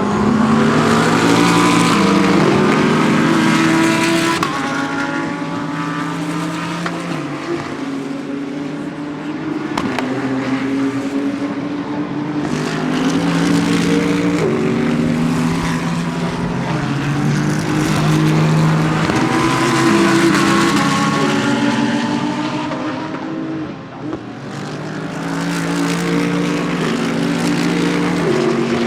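GT3 race cars running at speed, several in succession, their engines climbing and dropping in pitch in steps as they shift gears.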